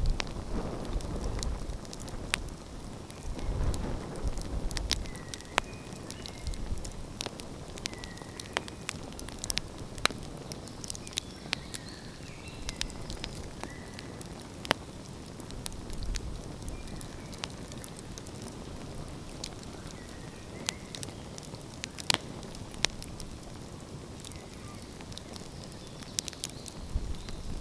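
Open wood fire crackling, with frequent sharp pops and snaps over a steady low rush. The low rush swells in the first few seconds and again near the end.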